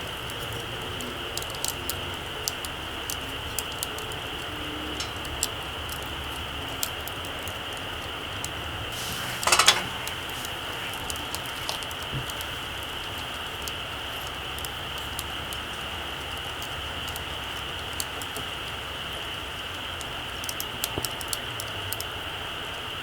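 Small wood campfire crackling, with scattered sharp pops over a steady hiss, and a louder sputtering burst about nine and a half seconds in.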